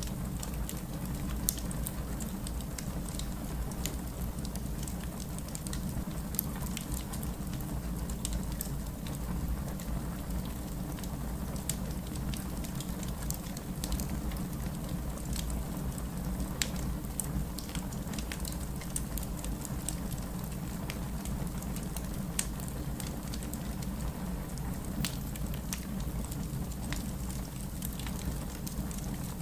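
Wood fire in a fireplace burning steadily, a low rumble of flames with irregular sharp pops and crackles scattered throughout.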